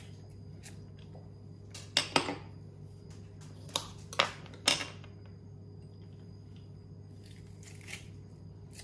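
Fresh garlic being broken apart and its papery skin torn off: a few short, sharp crackles and tearing sounds between about two and five seconds in.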